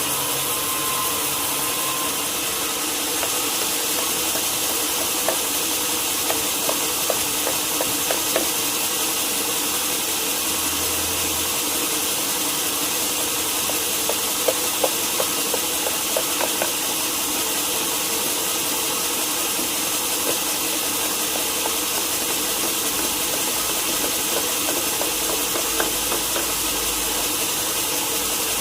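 Sawmill machinery running steadily with a constant hiss and hum, and scattered light clicks and knocks over the middle stretch.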